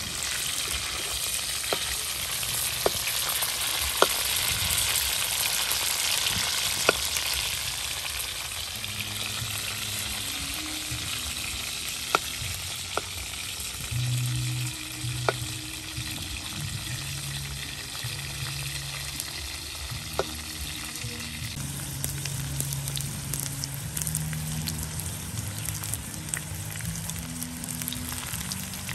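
Beetles frying in hot oil in a steel wok, sizzling steadily, loudest in the first few seconds and easing a little past the middle. A metal spatula stirs them, with sharp clicks against the wok now and then.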